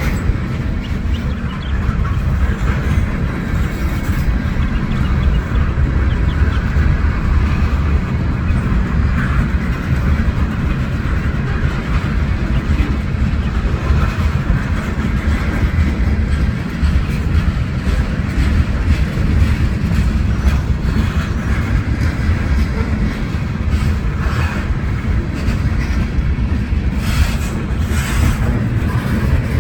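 A train rolling past a railroad crossing: a steady, heavy rumble of rail cars with no let-up, and a few sharp clicks near the end.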